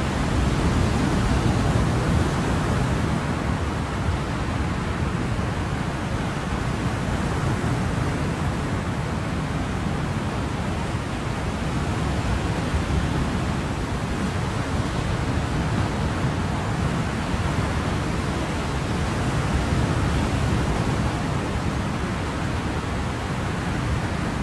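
Ocean surf: a steady, even wash of waves with slow, gentle swells in loudness every several seconds.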